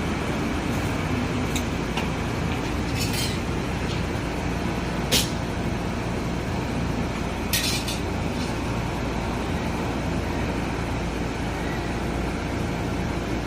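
Steady low background rumble with three short hisses, the loudest about five seconds in.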